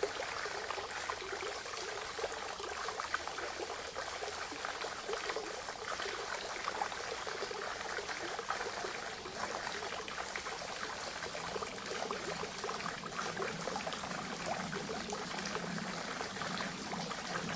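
Spring water trickling and splashing steadily, a continuous stream of small gurgles and drips.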